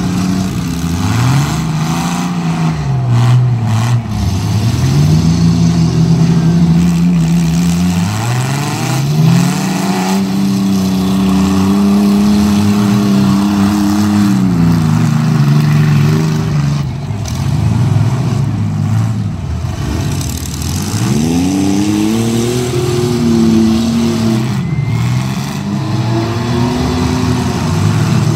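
Demolition-derby compact car engines revving hard, rising and falling in pitch as the cars push and ram one another, with a few sharp crunches of car bodies colliding.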